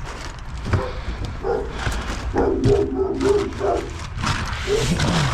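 A dog barking, a quick run of short barks from about a second and a half in to nearly four seconds.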